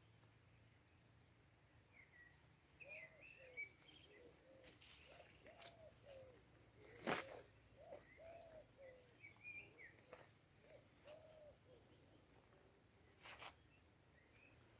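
Birdsong in a quiet garden: a dove cooing in short, low, arched notes while small birds chirp higher up. A single sharp click about seven seconds in.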